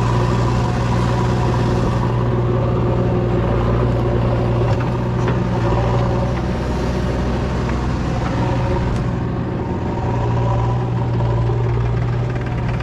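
JCB 3DX backhoe loader's diesel engine running steadily at a constant speed, with a faint knock about five seconds in.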